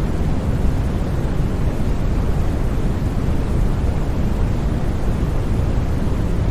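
Steady, unbroken noise of a white-noise sleep track, deep and rumbling in tone rather than bright, with no changes or sudden sounds.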